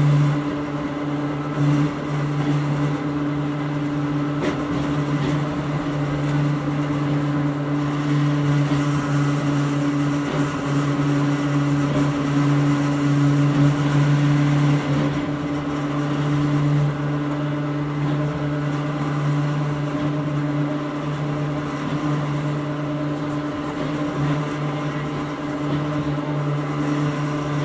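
Hakone Tozan Railway Moha 1, an old electric railcar with nose-suspended traction motors, running, heard from inside the car. A steady low hum holds over continuous running noise.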